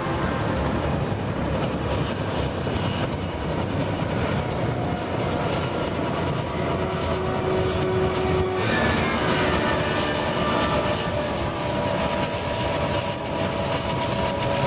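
Sikorsky CH-54A helicopter running on the ground, its twin turboshaft engines giving a steady loud rush with a high turbine whine. About nine seconds in the sound brightens and a tone glides down.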